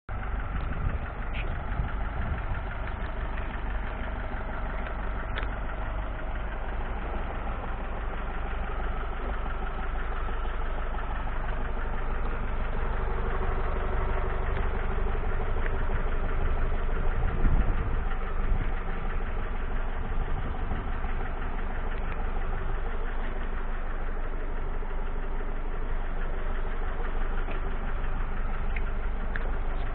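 Renault Trafic's dCi 115 diesel engine idling steadily, with a brief rise in level about halfway through.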